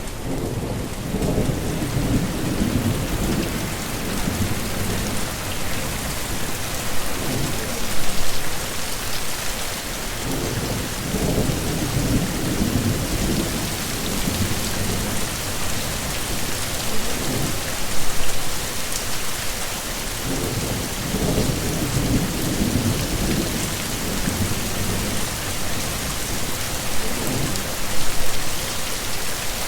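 Heavy rain falling steadily in a thunderstorm, with low rolls of thunder swelling and fading several times.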